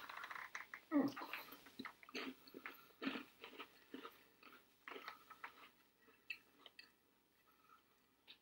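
Faint crunching and chewing of a crunchy baked-tortilla Combos snack: irregular crunches come thick for the first five seconds or so, then thin out to an odd crunch.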